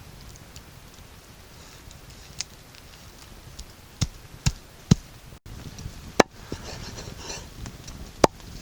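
Chopping: about six sharp, separate strikes at irregular gaps, with light rustling between them.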